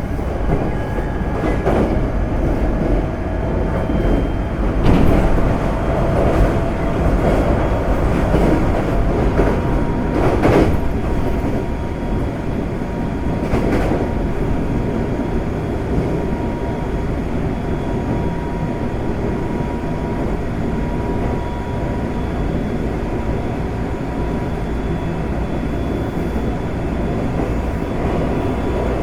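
Inside a Semboku Rapid Railway 5000 series electric train car running at speed: a steady rumble of wheels on rail, with a few clunks in the first half and a thin steady whine in the second half.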